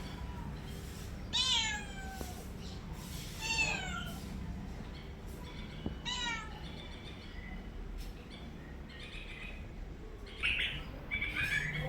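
Domestic cat meowing: three drawn-out calls, each falling in pitch, a couple of seconds apart, followed by further shorter sounds near the end.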